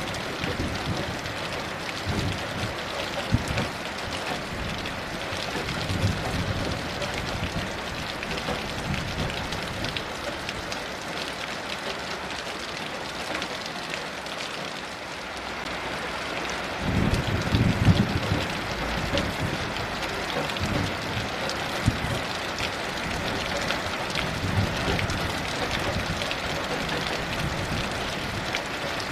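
Steady heavy rain hissing, with several low rumbles of distant thunder; the strongest rumble comes a little past halfway.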